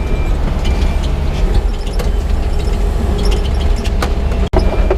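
Yanmar crawler excavator's diesel engine running steadily under load, with scattered clanks and clicks from the machine as it track-rolls loose clay to compact it.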